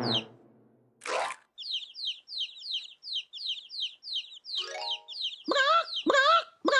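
Cartoon sound effect for a guessing game: a short whoosh, then a long run of quick, high, falling bird-like chirps, about three a second, ending in three loud wavering calls that dip and rise in pitch.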